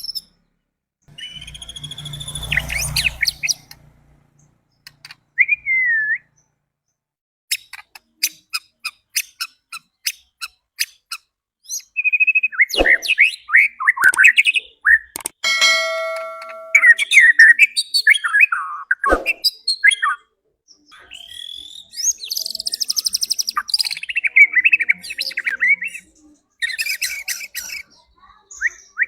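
White-rumped shama (murai batu) singing a varied song of gliding whistles, a run of sharp ticking notes about four a second, and harsher chattering phrases, the kind of song played to provoke a caged shama into singing.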